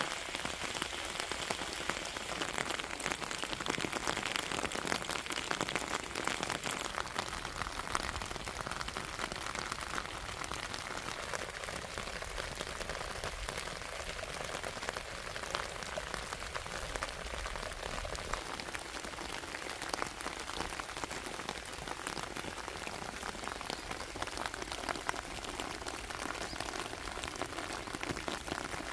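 Steady rain falling, with dense pattering of drops on surfaces.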